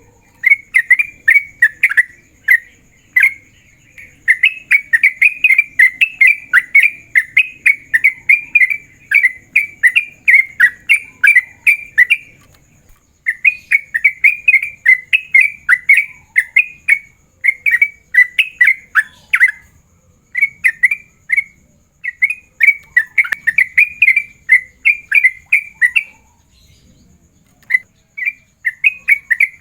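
Yellow-vented bulbul singing in long, fast runs of short, rapid-fire notes with brief pauses between runs: the rapid 'ropel' call of a male in full song, calling out to rivals.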